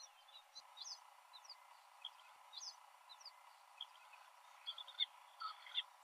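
Small wild birds calling in the background: scattered short chirps and quick downward-sliding whistles, growing busier near the end.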